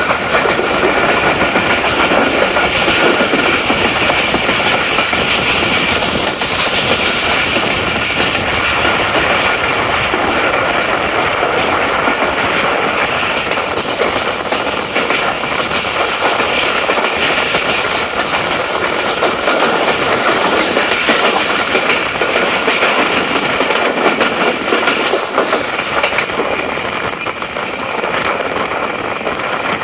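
Tezgam Express passenger train running along the track: a steady rumble of wheels on rail with a clickety-clack of the rail joints, easing slightly near the end.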